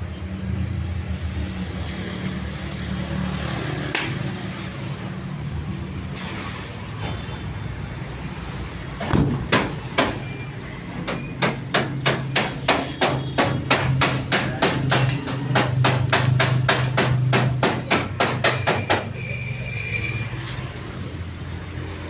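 Hammer blows: two single strikes, then a fast run of about four strikes a second for some eight seconds, over a steady low hum.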